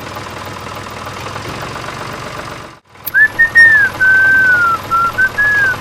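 A steady noisy hum cuts off about three seconds in. Then comes a whistled tune: a single clear tone that wavers and glides through a few short notes.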